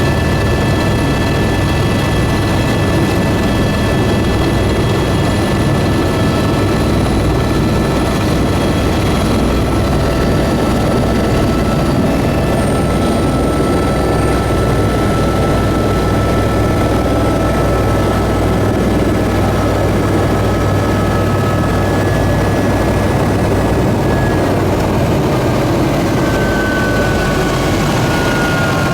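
Aircraft in flight: a loud, steady engine drone with a low rumble and several high whining tones held throughout. Near the end one whining tone slides slowly lower.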